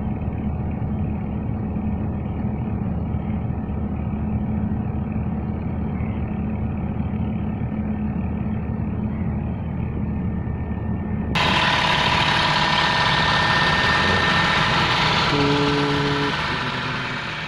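An engine running steadily with a low hum. About eleven seconds in, the sound cuts abruptly to a louder, brighter sound with steady held tones, which begins to fade near the end.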